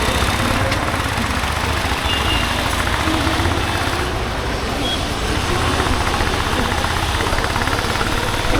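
Honda H'Ness CB350's single-cylinder engine running steadily under way, a continuous low exhaust beat, with wind and road noise on the chin-mounted microphone.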